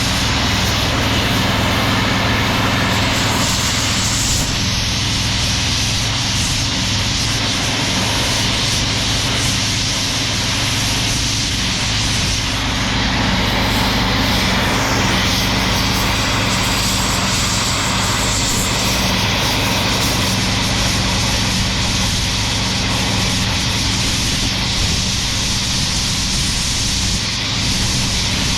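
Heavy diesel engine of scrapyard equipment running steadily at a constant speed, with a low hum under a loud, even mechanical noise.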